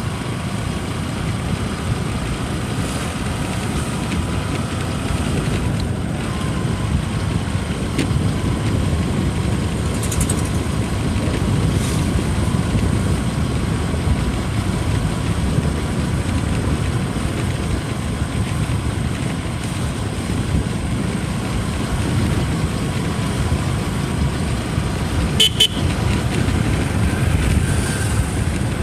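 Steady rumble of wind and road noise on the move during a bike ride, with a short vehicle horn toot about twenty-five seconds in.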